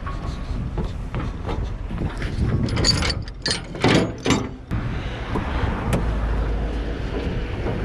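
Vehicle engine running with a low rumble, and a run of sharp metallic clatters and knocks in the middle.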